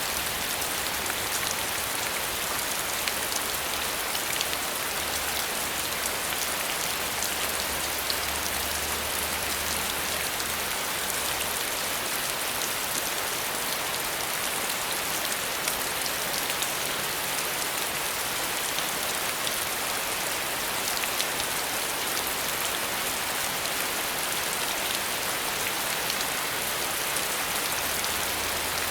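Steady rain falling, a constant hiss with many fine drop ticks.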